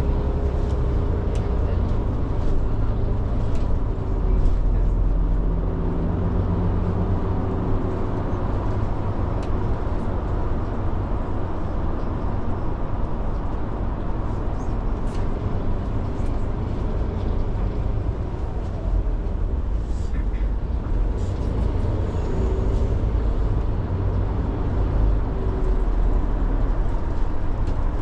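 City bus in motion, heard from inside: a steady low rumble of engine and road.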